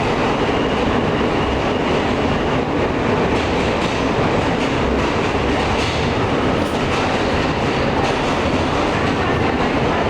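Alstom R160A subway car running between stations, heard from inside the car: a steady rumble of steel wheels on the rails with light clicks from the track.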